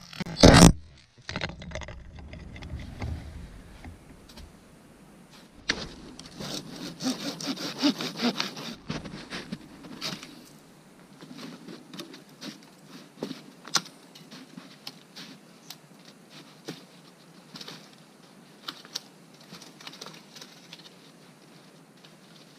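Wood scraping and rubbing, with scattered clicks and knocks; a loud bump about half a second in, and the busiest scraping between about six and nine seconds in.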